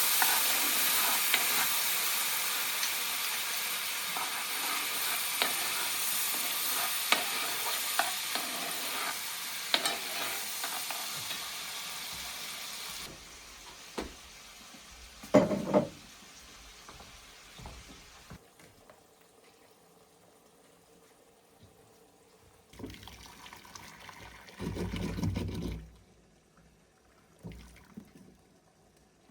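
Food sizzling in a frying pan with small crackles and scrapes, the hiss fading slowly and cutting off sharply about halfway through. After it come a few separate knocks and clatters, the loudest a couple of seconds after the sizzle stops.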